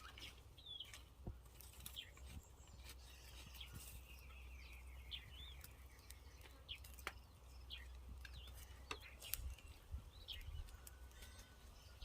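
Faint outdoor ambience: scattered short bird chirps over a low steady rumble.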